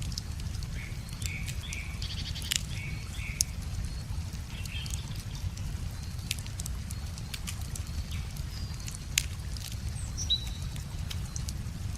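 Wood bonfire crackling with scattered sharp pops over the steady low rush of a river, with a few short animal calls.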